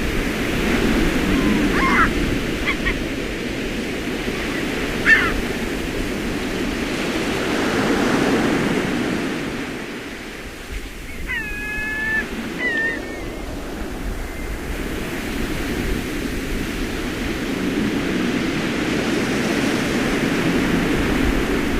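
Ocean surf washing, swelling and easing over several seconds. A few short high animal calls come through, once about two seconds in, a louder one about five seconds in, and a cluster near the middle.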